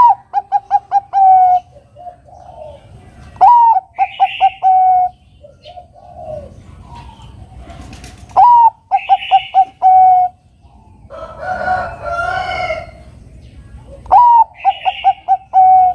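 Zebra dove (Bangkok perkutut) singing its cooing song four times: each phrase is a rising opening note, a quick run of short stuttering coos and a longer closing coo. A harsher, different bird call sounds once around twelve seconds in.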